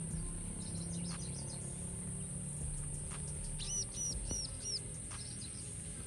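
A bird calls with four quick, high, arched notes about halfway through, over a steady high-pitched hiss.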